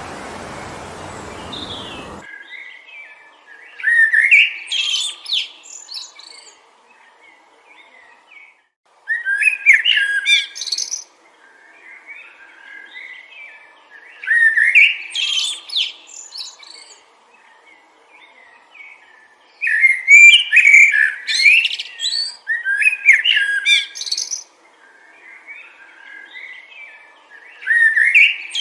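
A songbird singing short, quick, twittering phrases that repeat about every five seconds, with a longer run of song about two-thirds of the way through. Rushing wind noise fills the first two seconds and cuts off suddenly.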